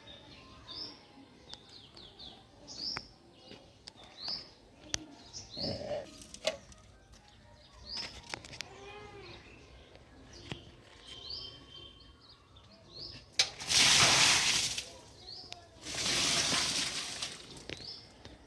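Small birds chirping over and over with short, high, rising calls. Near the end there are two loud rushing bursts of noise, each about a second and a half long.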